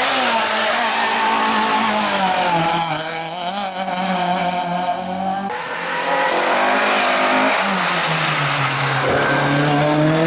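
Rally car engine running hard at high revs, its pitch sliding down and back up between gear changes and braking. The sound changes abruptly about five and a half seconds in, as a new stretch of engine noise begins.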